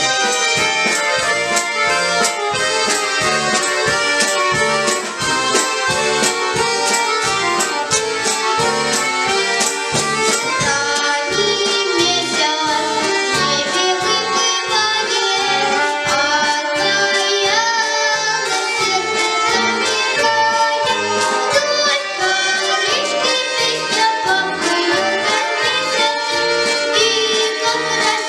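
An orchestra of bayans (Russian button accordions) playing a lively tune with a steady beat, starting abruptly.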